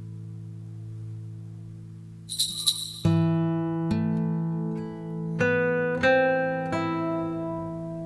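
Slow acoustic guitar music. A held chord fades, a short scratchy noise follows about two and a half seconds in, then plucked notes ring out one after another, roughly one a second.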